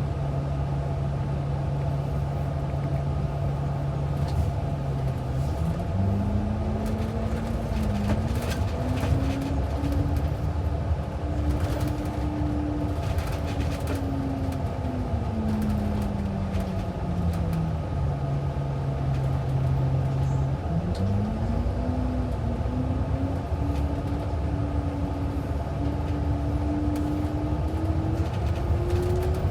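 City bus's engine idling at a steady low pitch, then rising in pitch as the bus pulls away about five seconds in. It falls back to idle as the bus slows and stops, and rises again as it accelerates once more.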